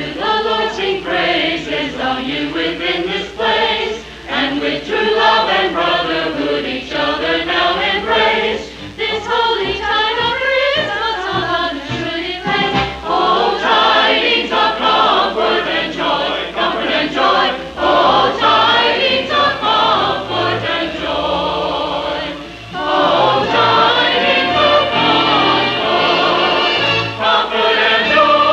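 Church choir singing a Christmas cantata with accompaniment, the sung lines rising and falling in pitch, dubbed from an old VHS tape.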